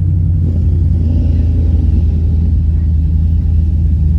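Low, steady rumble of a Camaro's LS1 V8 engine and exhaust while it rolls along slowly, heard from inside the car.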